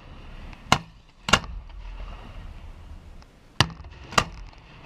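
Four sharp bangs of fireworks shells going off in a professional display, two close together about a second in and two more near the end.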